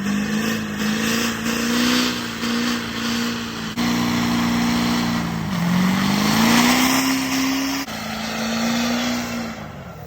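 Truck engine held at high revs under a loud rushing hiss of spinning tyres during a burnout. The engine pitch sags about five and a half seconds in and climbs back up. The sound jumps abruptly twice.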